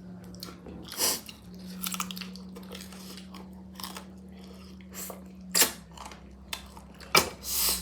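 Mouth sounds of eating egg curry: chewing with wet mouth clicks and smacks, and a few louder noisy bursts about a second in, at five and a half seconds, and near the end.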